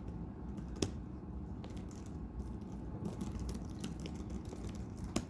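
Laptop keyboards typing: scattered, irregular key clicks over a low room hum, with a sharper click about a second in and another near the end.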